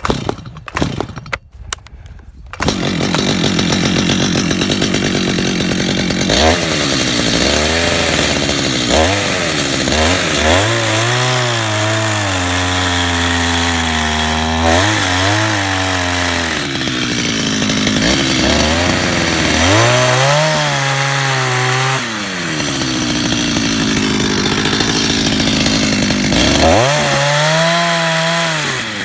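A few knocks, then about two and a half seconds in a chainsaw comes in loud and runs cutting into a wooden log. Its engine pitch repeatedly drops under load and climbs back again.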